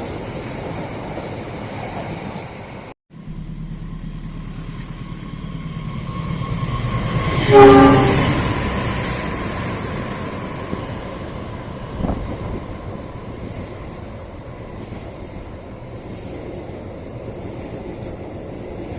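Train running on the tracks until a sudden cut. Then another train approaches, gives one short horn blast as it comes close, and its rumble fades away as it passes.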